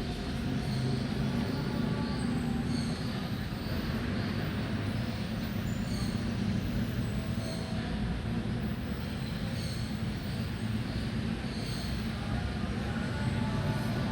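Steady low rumble of distant city traffic or trains, unbroken throughout, with faint short high bird chirps repeating over it.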